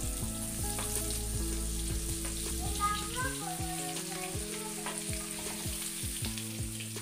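Paneer frying in butter and oil in a pan, sizzling steadily with scattered crackles. Background music with held notes and a steady low beat plays underneath.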